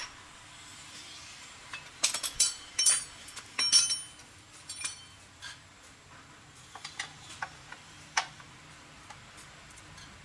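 Small metal parts and hand tools clinking and tapping against each other. There is a dense run of sharp clinks a couple of seconds in, then scattered lighter ticks.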